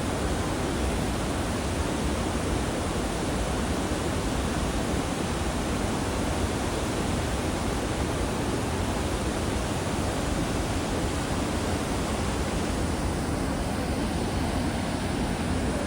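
Steady rushing roar of Panimur waterfall: water pouring and crashing without a break, even in loudness throughout.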